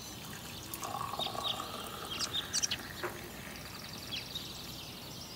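Small birds chirping in short high calls over a steady low background hiss, with a rapid high trill in the last second or so.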